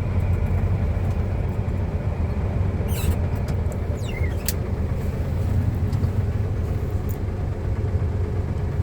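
Heavy diesel engine running steadily at low revs, a deep even rumble. A few short high squeaks and clicks come in around three to four and a half seconds in, one squeak falling in pitch.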